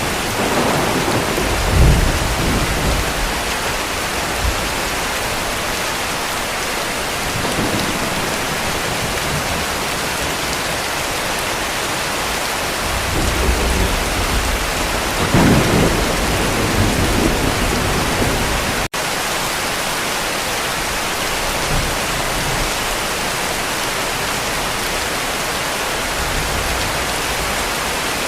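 Heavy rain falling steadily, with distant thunder rumbling low twice: once about two seconds in and again in a longer roll about halfway through.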